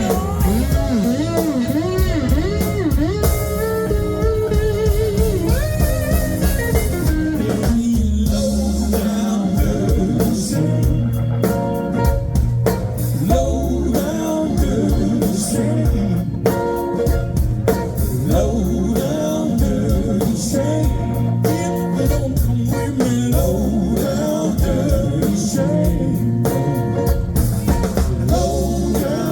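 Live blues band playing an instrumental break: a lead electric guitar with bent, wavering notes over heavy bass and a steady drum beat.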